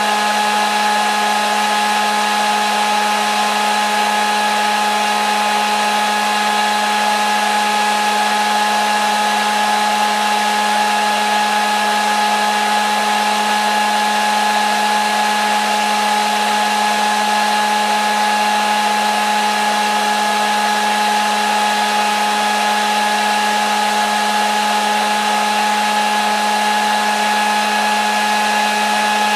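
Hair dryer running steadily, a constant rush of blown air over an unchanging motor hum and whine.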